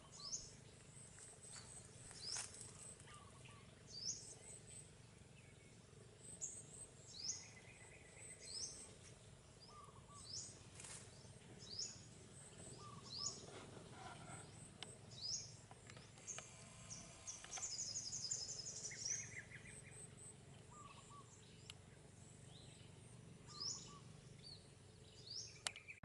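Wild birds calling faintly in the trees. A short, high, upward-sweeping note repeats every second or two, with a fast high trill and a few lower rattling calls around the middle.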